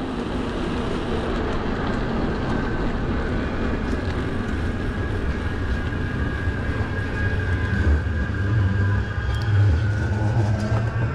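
Steady rush of wind and city traffic noise while riding an electric bike, with a faint steady whine. A low rumble builds over the last few seconds.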